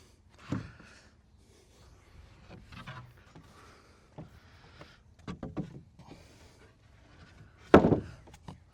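Wooden deck boards knocking and clattering as they are handled, in scattered knocks with a quick cluster in the middle and one loud knock near the end.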